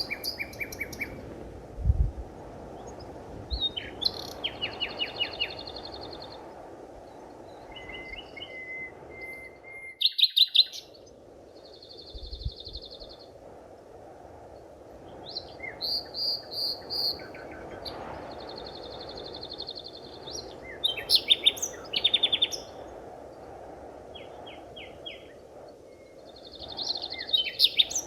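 Several forest birds calling in turn, with quick trills and repeated chirping phrases, over a steady background hiss that drops out briefly about ten seconds in. Two soft low thumps come near the start and again around twelve seconds in.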